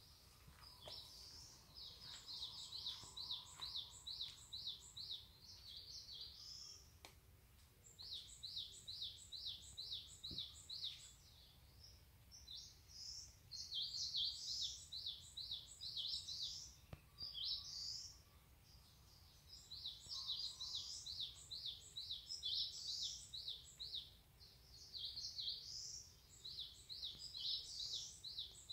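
A songbird singing: repeated phrases of quick, high, down-slurred notes at about three or four a second, each phrase lasting a few seconds with short pauses between.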